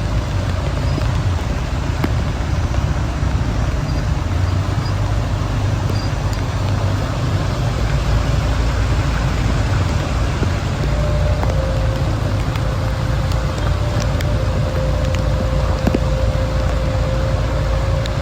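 Steady road and engine noise from travelling along a rain-flooded city road, with a heavy low rumble. A faint steady whine joins about eleven seconds in.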